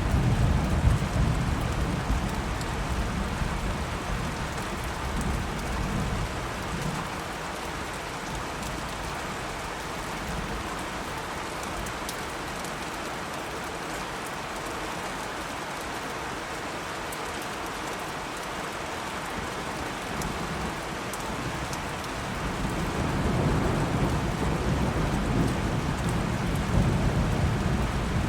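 Steady rain falling, with rolling thunder rumbling at the start, fading out within a few seconds and building again in the last few seconds.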